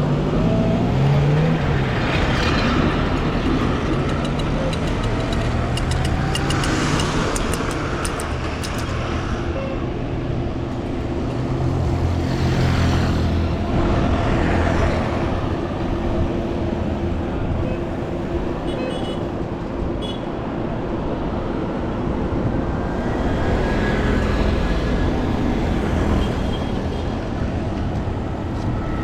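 Street traffic: engines running steadily while several vehicles pass one after another, each swelling and fading away.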